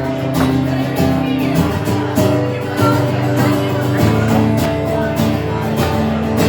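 Acoustic guitar strummed in a steady rhythm, the opening chords of a song.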